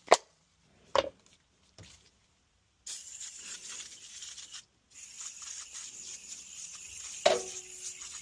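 Three sharp knocks, then a steady hiss with faint rubbing, and a louder clank about seven seconds in that rings briefly with a short tone, like sheet metal being struck.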